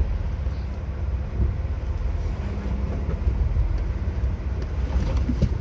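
Jeep Wrangler driving on an off-road trail, its engine running with a steady low rumble.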